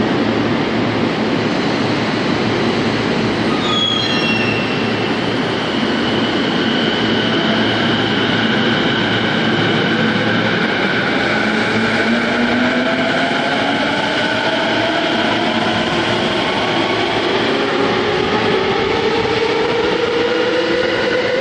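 JR E233-7000 series electric train pulling out of an underground station. Its traction motor whine rises steadily in pitch as it accelerates, over the rolling noise of the wheels on welded long rail, echoing in the tunnel. A brief run of falling tones comes about four seconds in.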